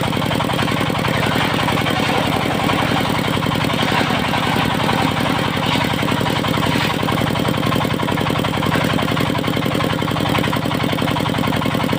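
Engine of a portable circular sawmill running steadily at an even pace.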